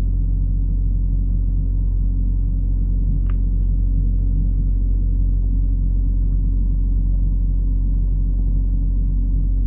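Semi truck's diesel engine idling: a steady low hum heard from inside the cab. There is a faint click about three seconds in.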